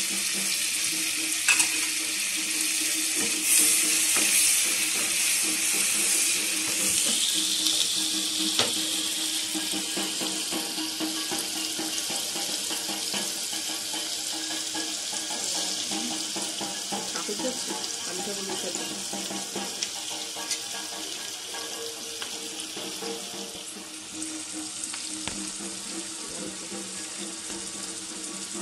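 Raw onion paste sizzling as it fries in oil and butter in a kadai, with a few sharp spatula clicks while it is stirred in the first seconds. The sizzle eases gradually quieter.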